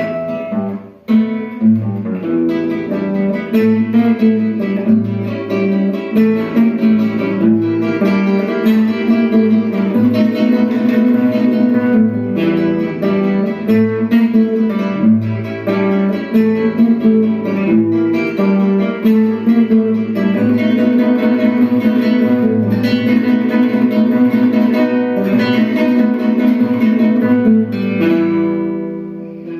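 Duet of two acoustic guitars playing a blues piece, plucked melody over a bass line and chords. The sound thins and falls away near the end as a phrase dies out.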